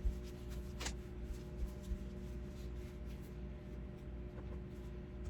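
A steady low electrical hum of an appliance running, with a sharp click about a second in and a few faint knocks and rubs of handling.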